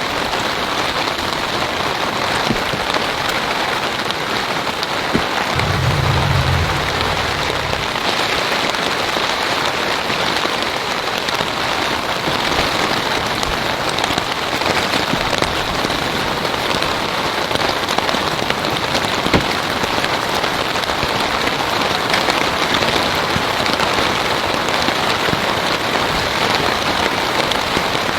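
Heavy rain falling steadily, with scattered sharper drop impacts. A brief low rumble comes about six seconds in.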